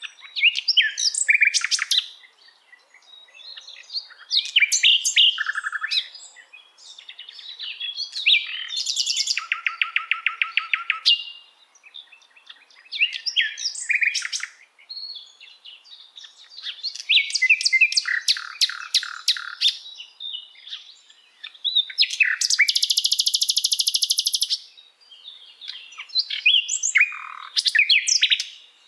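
Common nightingale singing: a run of varied phrases separated by short pauses, mixing quick whistles and chirps with fast, even rattles of repeated notes, the longest a high buzzing rattle of about two seconds a little past the middle.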